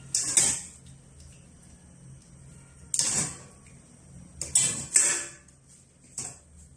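Packaging being handled during an unboxing: several short bursts of rustling and crinkling, the longest a double burst about two-thirds of the way in, over a faint steady electrical hum.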